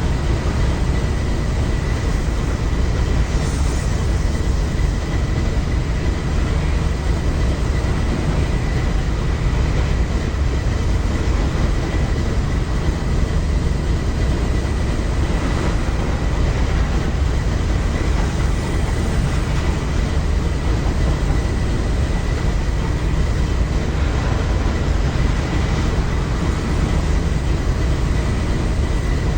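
Train cars rolling by with a steady low rumble, and a faint steady high tone over it.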